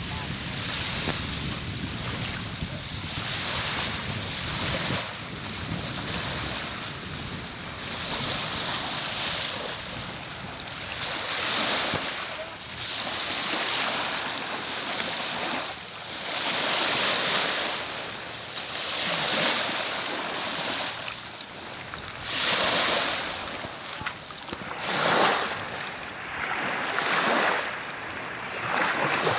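Sea waves washing onto the beach in repeated surges a few seconds apart, growing stronger near the end, with wind buffeting the microphone.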